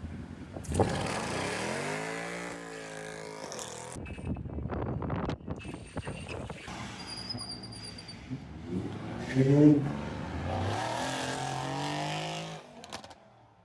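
Sports car engines revving loudly in short spliced clips. The first rev starts sharply about a second in and falls in pitch until it cuts off. Later the revs climb, then hold steady before ending abruptly near the end.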